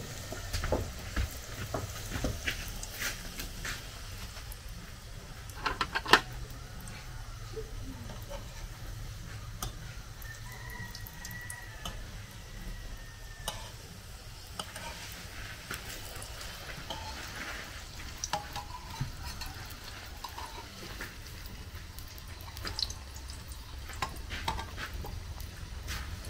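Plantain snacks frying in hot oil in a pan on a gas burner: a steady sizzle, with scattered sharp clicks and taps of a metal spatula, a cluster of them about six seconds in.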